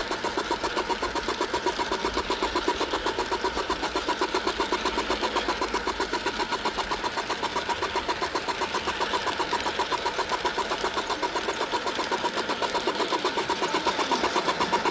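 Garden-scale model train running along its track, heard up close from on board: a fast, even mechanical clatter of the wheels and drive gearing.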